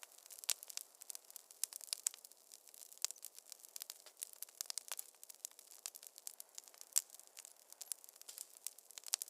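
Wood fire crackling in a fireplace: dense, irregular snaps and pops over a faint hiss, with one louder pop about seven seconds in.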